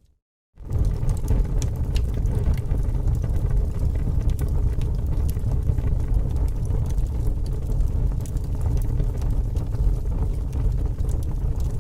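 Fire crackling: a steady low rumble with many scattered sharp pops and snaps. It starts about half a second in, after a moment of silence.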